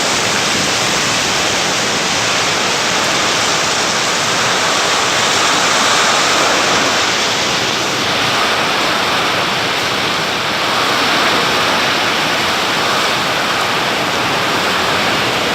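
Heavy rain falling: a loud, steady, even hiss.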